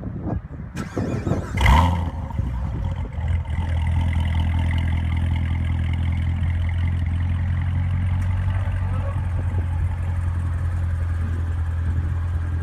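Chevrolet Corvette C7 Z06's supercharged V8 starting: cranking catches with a loud flare about two seconds in, then settles into a steady, deep idle.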